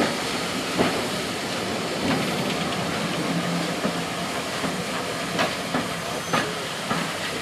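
Steam-hauled train of coaches and a tank wagon rolling slowly past, its wheels clicking over rail joints a handful of times over a steady hiss of steam.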